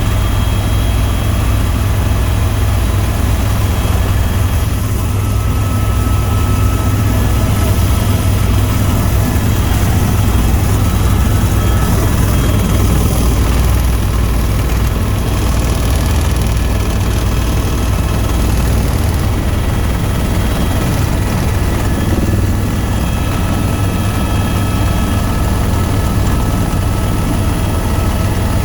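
Tour helicopter in flight, its rotor and turbine engine running steadily with a heavy low rumble and faint steady whining tones above it.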